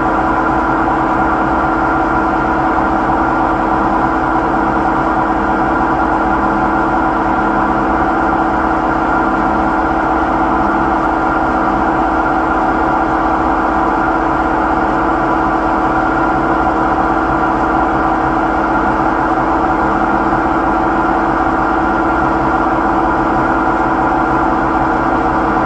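Samsung washing machine spinning in its spin cycle, giving off a loud, steady whine of several fixed pitches over a low rumble: the abnormal spin noise, a fault that has come back despite repeated repairs.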